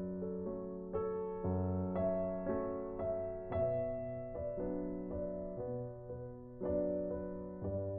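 Slow, soft piano music: chords struck about once a second, each left to ring and fade before the next.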